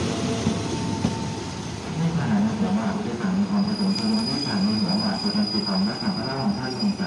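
Passenger train hauled by an Alsthom diesel-electric locomotive standing at the platform: a steady rumble and hiss, with a wavering low hum joining about two seconds in and a thin high whine from about halfway.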